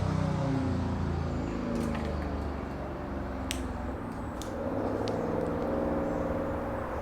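Indian Scout Bobber's V-twin with Vance & Hines slash-cut slip-on exhausts fading away after a drive-by pass. The engine note dies down, swells again briefly past the middle, then fades.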